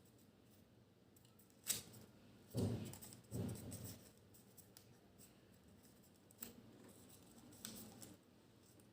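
Origami paper being handled and folded: a sharp crackle about two seconds in, two rustling crinkles soon after, then a few faint paper ticks.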